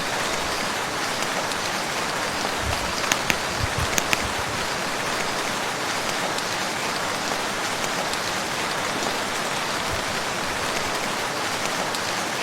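Steady rain falling on a lake, with a few sharper, louder drops about three to four seconds in.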